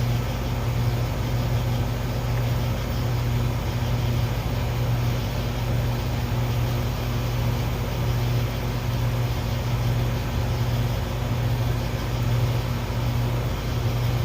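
Air-conditioning unit's fan running with a steady low hum, on a system that is running but not cooling.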